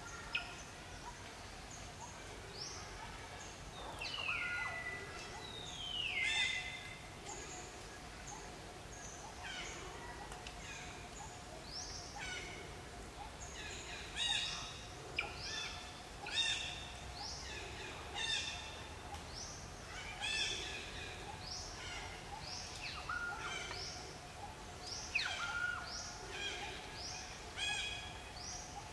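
Birds calling: many short, falling chirps repeated every second or so, with one longer falling whistle about four to six seconds in, over a faint steady hum.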